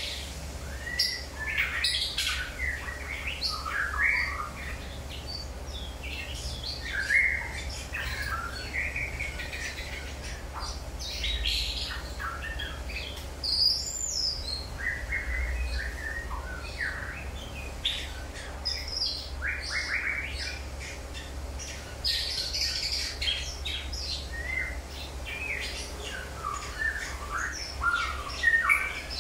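Birds chirping and calling again and again in short, separate notes, over a faint steady low hum.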